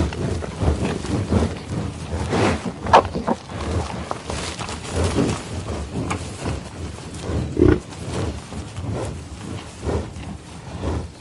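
A large animal calling in a run of short, uneven, low-pitched sounds, loudest about three seconds in and again near eight seconds.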